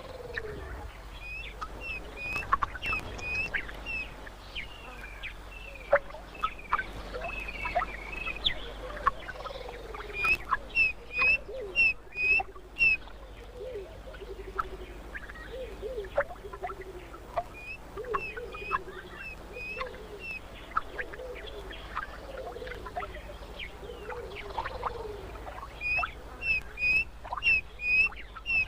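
Several wild birds calling. One repeats a sharp, high call about twice a second in runs of four to six, while lower, falling calls come again and again in between.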